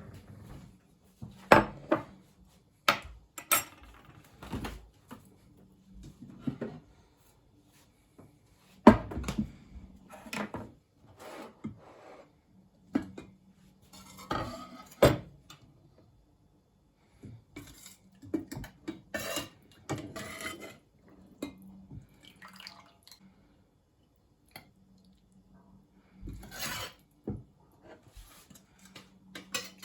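A spoon clinking and tapping against a soup bowl in irregular knocks, some sharp and loud, over a faint steady low hum.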